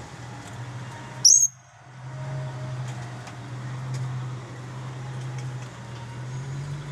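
Blue-crowned hanging parrot giving one short, shrill, high-pitched call about a second in, over a steady low hum.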